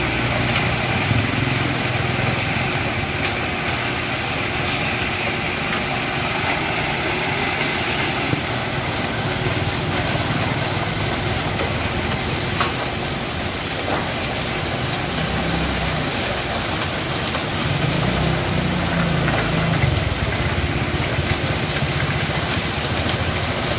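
Concrete mixer truck's engine running steadily at a low idle.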